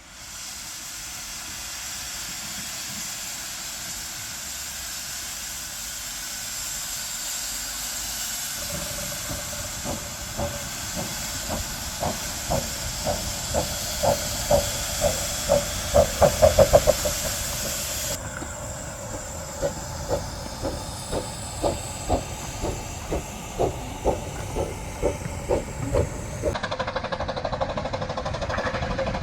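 Narrow gauge steam locomotive: a steady hiss of steam, then exhaust beats as it works a train, quickening to a rapid run of beats about halfway through, then steady chuffing at roughly one beat a second.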